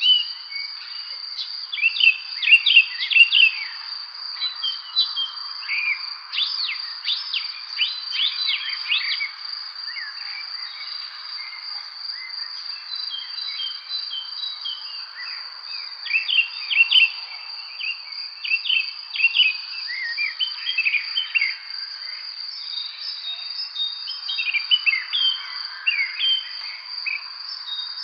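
Birds chirping and singing in clusters of quick notes, over a continuous high, even insect trill such as crickets.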